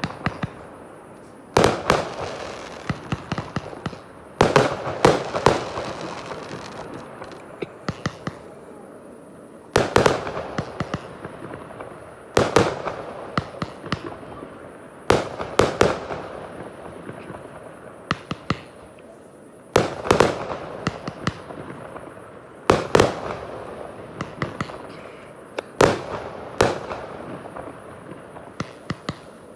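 Fireworks display: aerial shells bursting with loud bangs every few seconds, each followed by a quick spray of smaller cracks that fade away.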